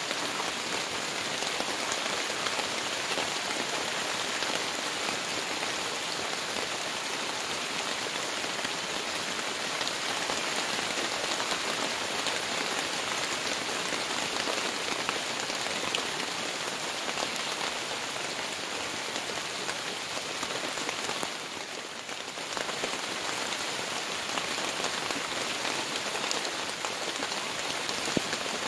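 Steady rain falling on a rose bush and its leaves, an even wash of drops that eases briefly about three-quarters of the way through.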